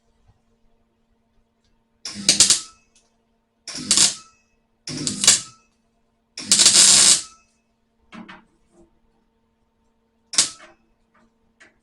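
Welder laying a series of short tack welds on a sheet-steel patch panel: about six separate crackling bursts with pauses between, one about twice as long as the rest near the middle, over a faint steady low hum.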